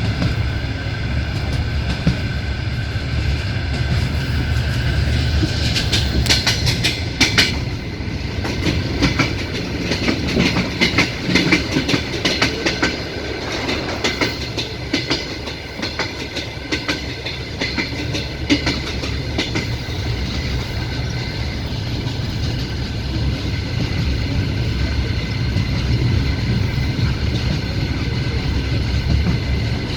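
Passenger train wheels rolling on the rails, heard from a carriage window: a steady low rumble with the clickety-clack of rail joints, which comes thickest as a run of sharp clacks several seconds in.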